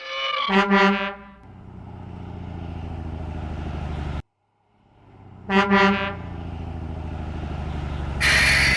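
Truck sound effects: a horn honks and then an engine runs steadily for about three seconds before cutting off. The same honk and engine run repeat, and near the end comes a loud burst of hissing.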